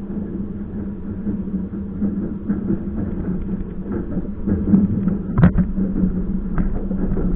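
Passenger train running, heard from inside a carriage: a steady hum over a low rumble, with scattered knocks and rattles. The loudest knock comes about five and a half seconds in.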